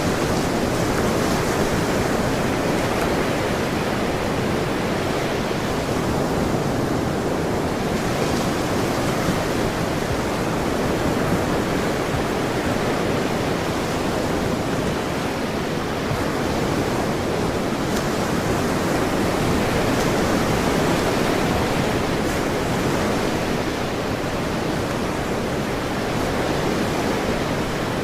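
Ocean surf: a continuous, steady wash of breaking waves, with only slight slow swells in loudness.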